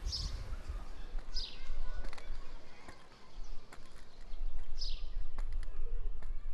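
Outdoor ambience: a bird gives three short, high chirps that fall in pitch, a second or more apart, over a steady low rumble.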